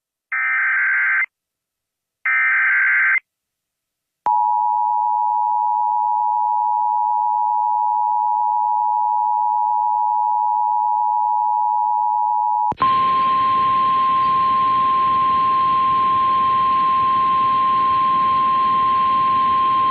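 Emergency Alert System tornado warning: two short warbling digital data bursts of the SAME header, then the two-tone attention signal held steady for about eight seconds. About 13 seconds in, it switches to a single steady weather-radio alert tone over static hiss.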